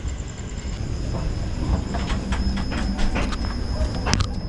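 Moving Indian Railways express train heard from inside a sleeper coach: a steady rumble from the running gear, with a thin high whine and a run of knocks about two seconds in as the wheels cross rail joints. A single sharp click comes near the end.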